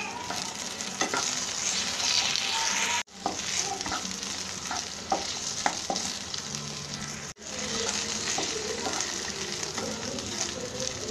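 Diced potatoes sizzling in hot oil in a frying pan while a spatula stirs them, with scattered scrapes and taps of the spatula against the pan. The sound breaks off for an instant twice.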